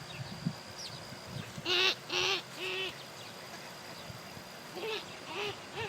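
Ducks quacking: a run of three short nasal calls about a second and a half in, then two more near the end.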